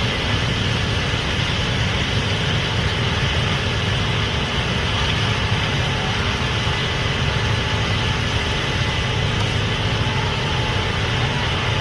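Case IH Axial-Flow 8250 combine running steadily while harvesting corn: a constant diesel drone with a steady mechanical whir over it.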